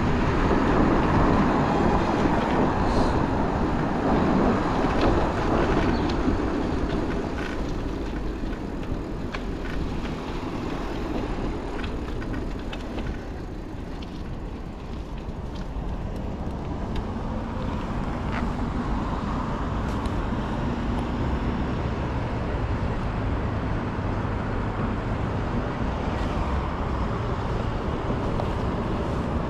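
City street traffic noise: cars and other motor vehicles running and passing close by. It is loudest in the first few seconds, eases off around the middle, then holds steady.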